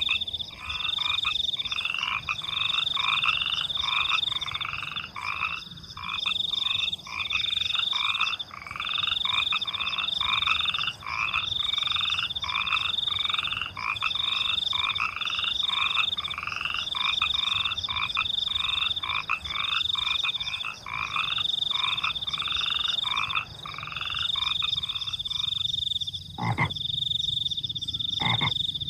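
Frogs croaking in a steady run of repeated calls, about one and a half a second, over a continuous high-pitched cricket trill. The frog calls stop a few seconds before the end, leaving the crickets, and two short sharp knocks follow near the end.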